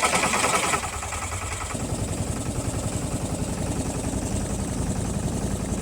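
Small boat engine running steadily with an even, pulsing low thrum. For about the first second a louder, rattling higher noise lies over it, then stops.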